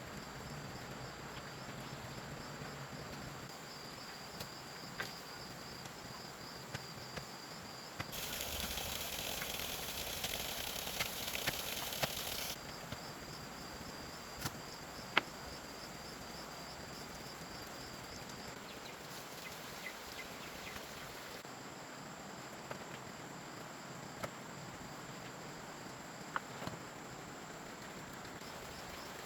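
Insects trilling steadily in rural surroundings, with scattered sharp clicks and taps. A loud rustling hiss comes in about eight seconds in and stops suddenly some four seconds later.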